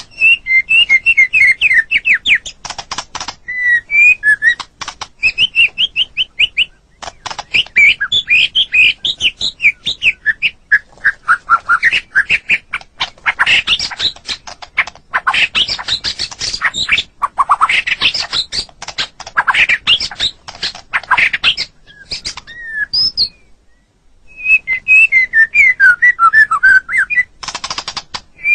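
White-rumped shama (murai batu) singing: fast runs of repeated whistled notes, trills and glides, in long phrases broken by a few short pauses.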